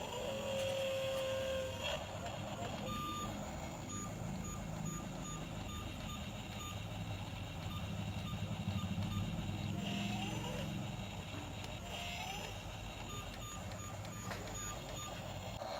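Truck reversing alarm beeping in an evenly spaced row of short tones over a steady low engine running, with a few brief gliding tones near the start and around two-thirds of the way through.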